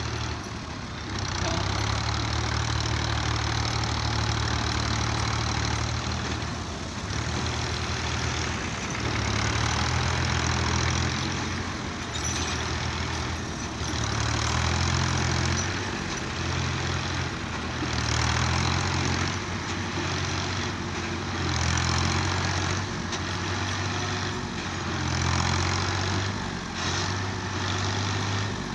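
New Holland farm tractor's diesel engine running under varying throttle, its note repeatedly rising and falling every few seconds, as when working the hydraulics to tip and unload a trolley.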